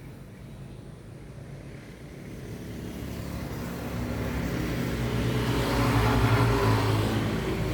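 A motor vehicle passing: an engine hum that grows steadily louder and is loudest about six seconds in.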